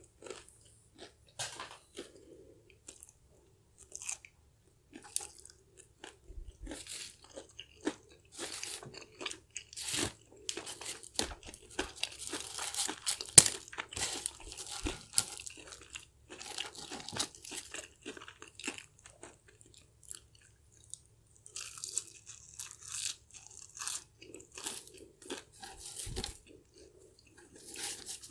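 Close-up chewing and crunching of crispy fried chicken coating, with many sharp irregular crunches that come thickest about halfway through.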